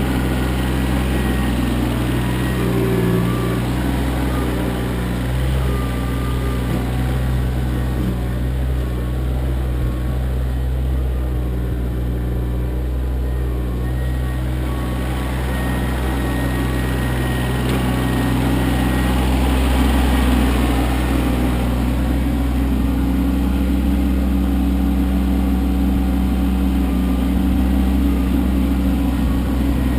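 Kioti CK25 compact tractor's three-cylinder diesel engine running steadily, its pitch shifting slightly now and then.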